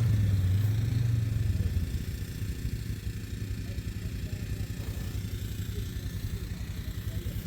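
Tractor engine running with a low, pulsing beat. It is loudest at first and grows quieter after about two seconds.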